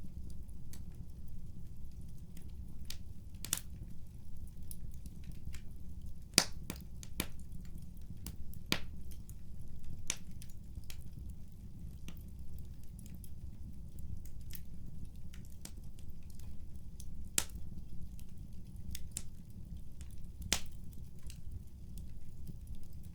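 Fireplace fire crackling: irregular sharp pops and snaps, the loudest about six seconds in, over a steady low rumble.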